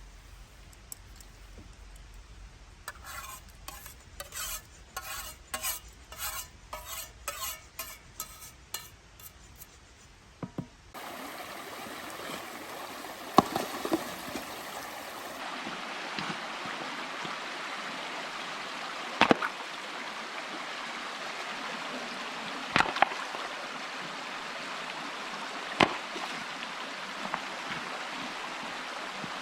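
Camp cooking: a utensil stirring and scraping in a pan in short strokes about twice a second. After that comes a steady sizzling hiss broken by a few sharp clinks.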